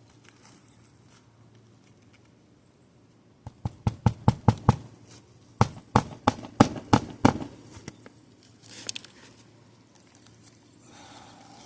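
Hammer driving roofing nails to fasten an asphalt shingle: two runs of quick, sharp blows, about seven each, the first a few seconds in and the second a couple of seconds later.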